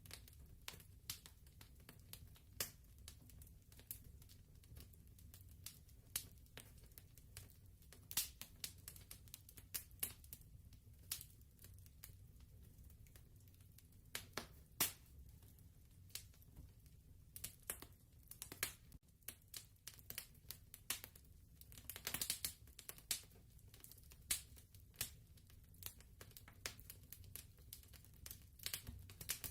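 Fireplace crackling quietly: irregular sharp pops and snaps over a low steady rumble, with a denser flurry of crackles about three-quarters of the way through.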